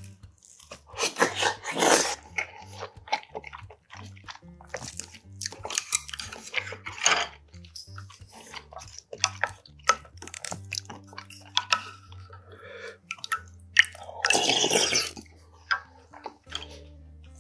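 Close-miked chewing of a mouthful of rice and salted seafood (jeotgal): irregular wet smacks and clicks of the mouth. Near the end comes a longer, louder wet noise.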